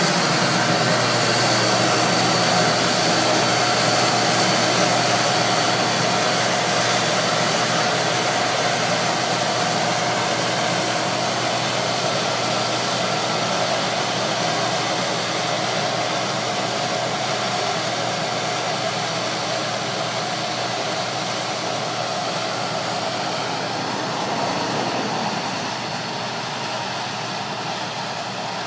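Case IH 5088 combine running steadily, its engine and machinery making a dense, even noise with a steady whine over it. The sound drops a little about twenty-five seconds in.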